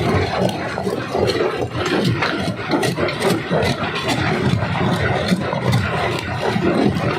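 Primary rock crusher running in a quarry, rocks cracking and clattering as they are broken, over the steady din of the machine. Sharp knocks come several times a second.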